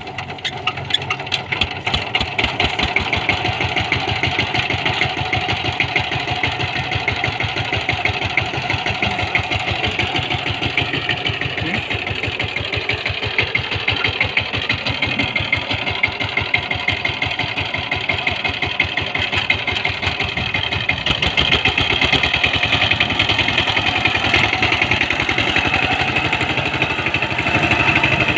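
Power tiller's engine running with a rapid, even putter of firing strokes, getting a little louder about three-quarters of the way through.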